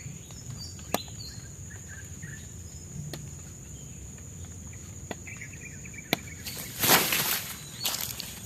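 Forest ambience: a steady high-pitched insect drone. A few sharp clicks sound over it, then a loud rustling crunch about seven seconds in and a shorter one near the end.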